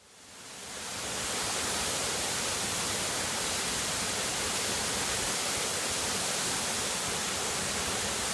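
Steady rushing hiss of a waterfall, even and without rhythm, fading in over about a second from silence.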